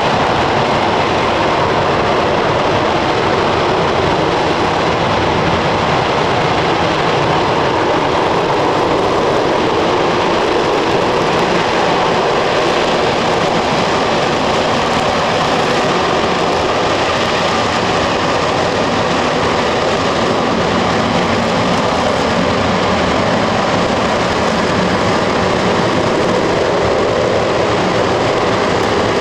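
RS-25 liquid-hydrogen/liquid-oxygen rocket engine firing steadily during a full-duration hot fire test, a loud continuous roar of noise with no breaks.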